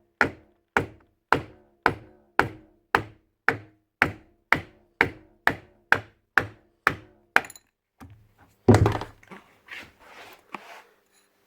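Steady tapping on the outer shell of a DAS6 dual-action polisher's spindle housing held in a vise, about two sharp ringing knocks a second, to drive out the spindle and its worn-out bearing. The taps stop a little after halfway, followed by one heavier thud and some clatter.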